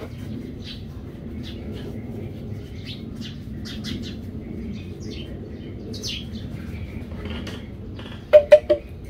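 Small birds chirping on and off over a steady low rumble, with three loud short sounds in quick succession near the end.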